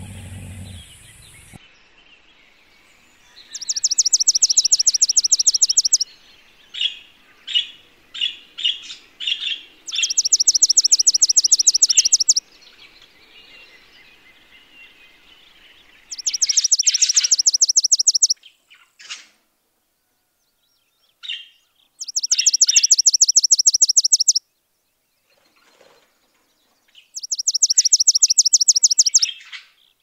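A songbird singing: five loud phrases of rapid high trills, each about two and a half seconds long and about six seconds apart, with short separate chirps between them. A low sound from another source fades out in the first second and a half.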